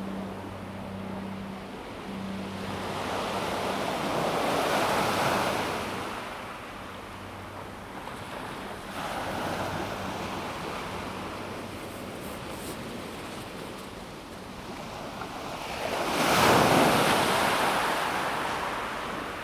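Calm sea waves washing onto a pebble beach, swelling and ebbing three times, the loudest wash about three-quarters of the way through. A faint low hum fades out during the first half.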